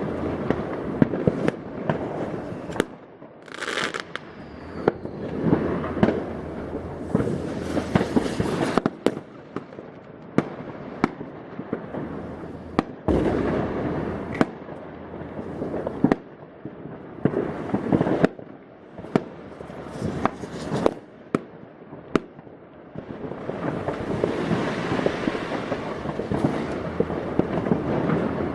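New Year's Eve fireworks and firecrackers going off all around: many sharp bangs in quick succession, with long stretches of dense crackling.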